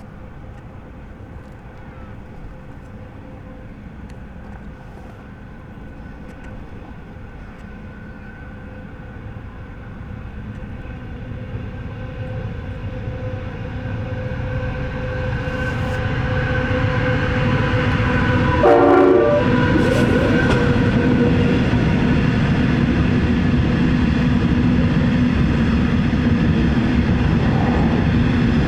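Empty coal train hauled by 1Rail XRN-class diesel locomotives approaching and growing steadily louder. A short horn blast comes about two-thirds of the way in, then the locomotives run loud and steady as they draw level.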